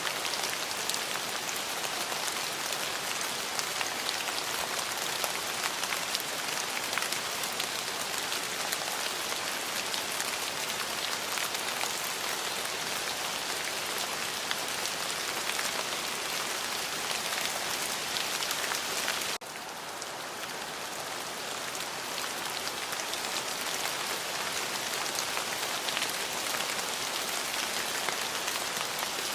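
Steady heavy rain falling on a surface, a dense hiss full of fine drop ticks. About two-thirds of the way through the level drops suddenly, then builds back over a few seconds.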